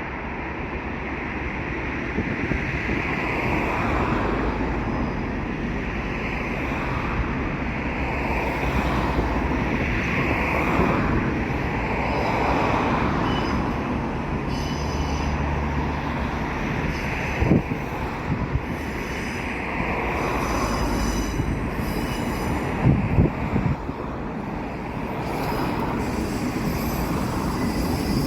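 Train passing close by, a steady rumble of wheels on rail with faint wheel squeal and a few sharp knocks from the wheels over rail joints.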